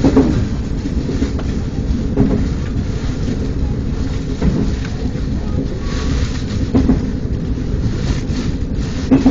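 KTX train running over a steel railway bridge, heard from inside the carriage: a steady low rumble with a louder knock about every two seconds.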